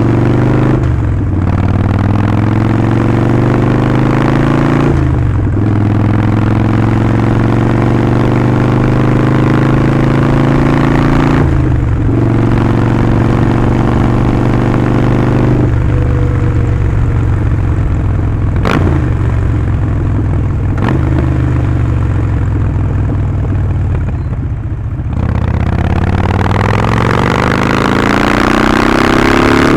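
Harley-Davidson Sportster 48's 1200 cc air-cooled V-twin running through a Vance & Hines slip-on exhaust while riding. The engine note climbs and drops sharply at gear changes about 1, 5, 12 and 16 seconds in, then holds steady at cruise. Near the end it eases off briefly and then accelerates again.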